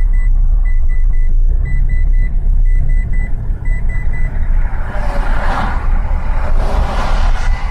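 Low rumble of a vehicle's engine and road noise heard through a dashcam, with a rapid series of short, high electronic beeps that stop about four seconds in. After that, swells of rushing noise rise and fall.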